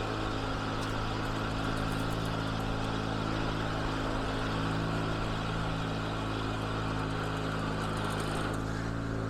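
1980 IH Cub Cadet 582 garden tractor engine idling steadily.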